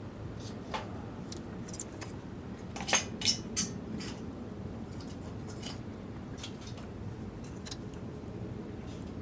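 Scattered sharp clicks and taps over a steady low rumble, with three louder clicks in quick succession about three seconds in.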